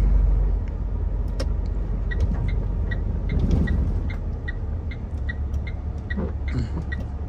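Heavy truck cab on the move: the diesel engine and road noise make a steady low rumble. From about two seconds in, a light high tick repeats evenly about three times a second.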